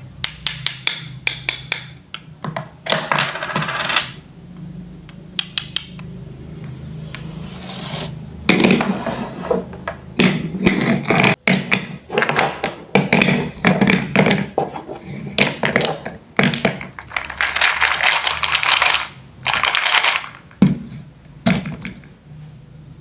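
Small wooden toy pieces clicking and clattering against each other and a hard surface, with several stretches of scraping.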